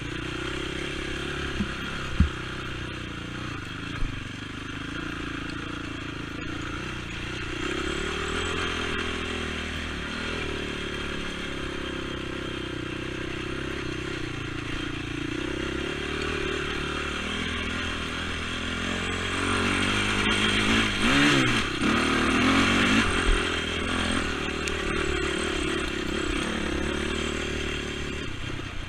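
Honda TRX450 sport ATV's single-cylinder four-stroke engine running while being ridden, its pitch rising and falling with the throttle. It revs harder about twenty seconds in, and two sharp knocks come in the first few seconds.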